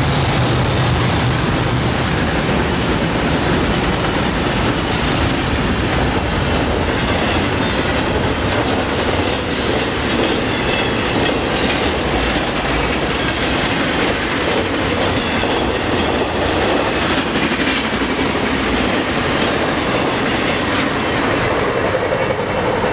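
A BNSF intermodal train passing close at high speed: its GE locomotives (ES44DCs and C44-9Ws) go by at the start, then the cars rush past in a steady loud rush of steel wheels on rail, with clickety-clack and faint wheel squeal.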